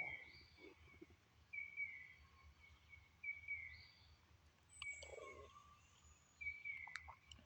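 Faint animal call, a short note with a slight downward slide repeated about every second and a half to two seconds, with a couple of faint clicks about five and seven seconds in.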